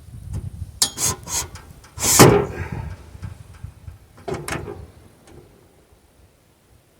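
Sawmill parts being handled and knocked during assembly: rumbling handling noise, a quick run of clicks about a second in, a loud knock with a short ring just after two seconds, and another knock near four and a half seconds.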